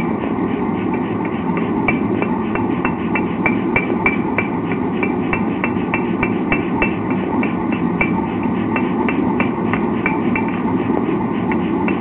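Blacksmith's hammer striking metal on an anvil in a steady rhythm of about three blows a second, each blow with a short high ring, over a steady background noise.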